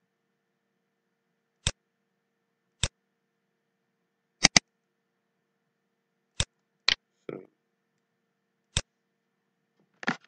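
Computer mouse button clicks, single clicks a second or two apart with two quick double clicks among them, as points of a line markup are placed. A brief softer scuff comes just after the second double click.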